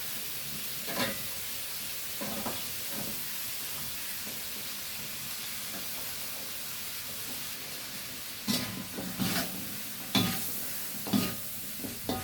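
Vegetables stir-frying in a hot pan with a steady sizzle, a utensil scraping and knocking against the pan as they are stirred, a few strokes early on and a quick run of them in the last few seconds.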